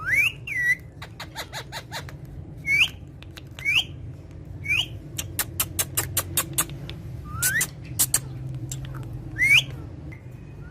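Parrot giving short, sharply rising whistles about six times, with runs of rapid clicks in between.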